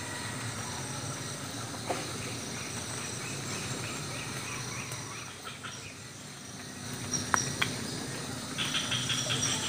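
Rural morning ambience: insects and crickets trilling steadily, with birds chirping in short repeated calls. Two sharp clicks come a little past the middle, and a fast pulsing trill near the end.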